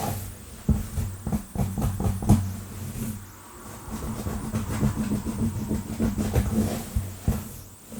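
Long fingernails scratching fast through hair and over a scalp close to the microphone: quick, irregular scratching and crackling strokes over a low, steady hum.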